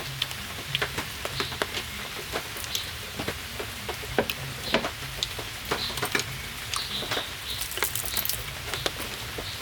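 Rain pattering, with irregular drops ticking sharply onto a surface.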